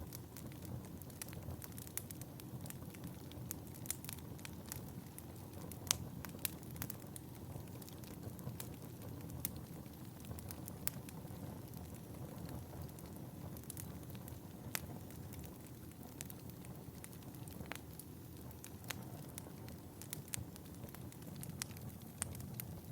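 Wood fire burning in a fireplace: a steady low rush of flames with frequent, irregular sharp crackles and pops, one of the loudest about six seconds in.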